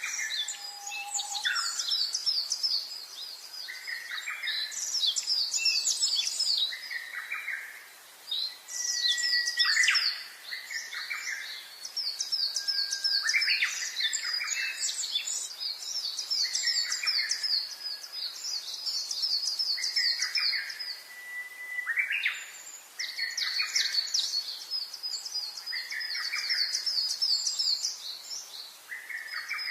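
Songbirds singing, with more than one bird. Rapid high chirping trills run almost continuously, and short lower phrases repeat about every two seconds.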